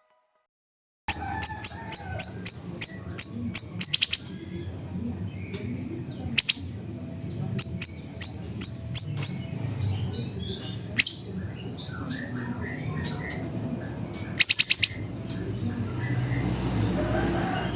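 Siri-siri bird calling loudly: sharp, very high, short notes fired in quick runs of up to a dozen, with single notes and a brief fast trill between pauses. Starts about a second in, over a low background rumble and faint softer chirps.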